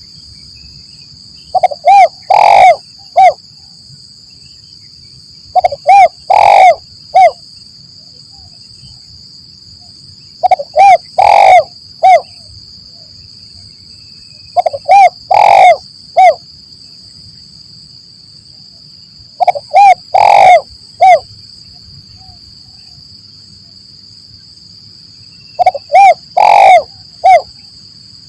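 Spotted dove (tekukur) cooing loudly: a phrase of three or four low coos, given six times about every four to five seconds.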